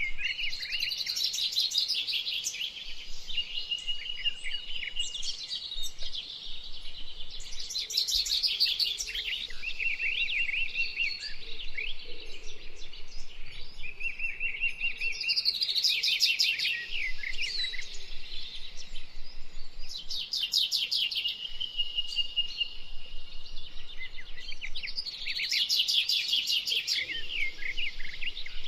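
Birds singing: a mix of chirps, short held whistled notes and fast trills, with a burst of rapid, high trilling every four to six seconds.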